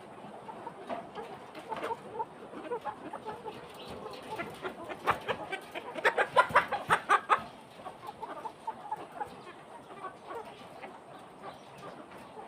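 Flock of chickens clucking, with a run of loud, rapid clucks around the middle.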